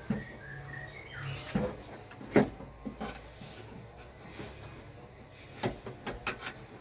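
Scattered clicks and knocks of hand work on a car door's power-window assembly, with one sharp knock about two and a half seconds in and a quick run of clicks near the end. Faint short squeaks sound during the first second and a half.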